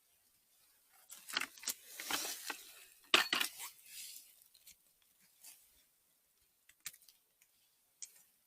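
Rustling and crackling of forest-floor litter and twigs being trodden on or handled, loudest between one and four seconds in. A few single sharp snaps follow later.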